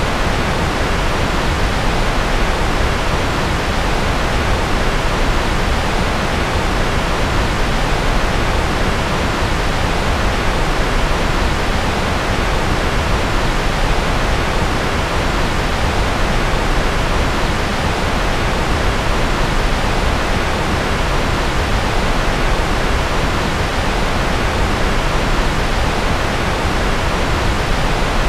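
Steady synthesized noise from a white-noise focus track: an even, unchanging hiss, fuller in the lows than the highs.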